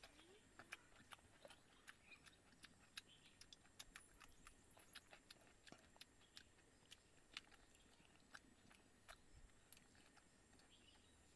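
Faint, irregular mouth clicks and smacks of a man chewing and biting a thin pitha pancake, eaten close to the microphone.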